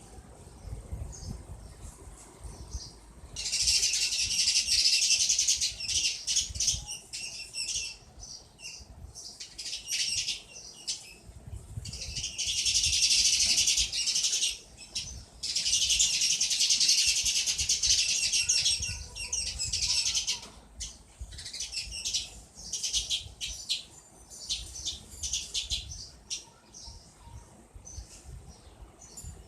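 A sparrow chirping rapidly in long, dense bursts of high chirps, three of them several seconds each, with scattered single chirps between, as it reacts to its reflection in a mirror.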